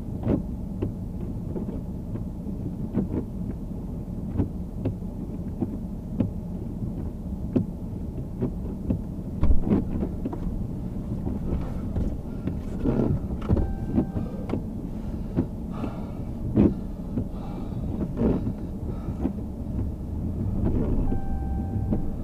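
A vehicle running, a steady low rumble with frequent irregular knocks and clunks. Faint steady tones come in about halfway through.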